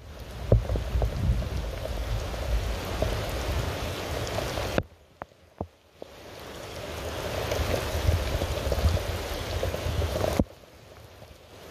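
Steady rain with scattered heavier drops. It cuts off abruptly about five seconds in, leaving a second of quiet with a few single drips, then swells back in and cuts off again near the end.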